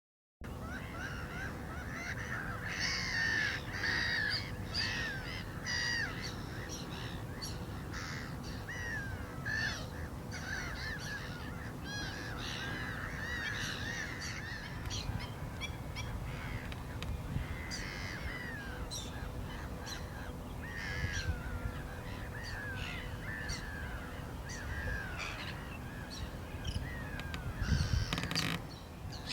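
Black-winged stilts calling: many short, sharp yelping calls, repeated and overlapping throughout, over a steady low rumble.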